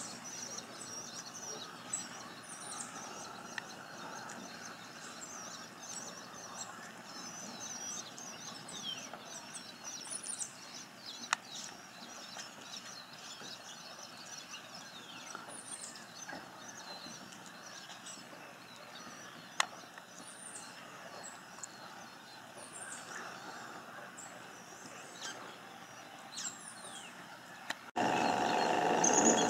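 Small birds chirping outdoors: a steady stream of short, high chirps with a clearer down-slurred call every few seconds. Near the end a louder steady hum cuts in abruptly.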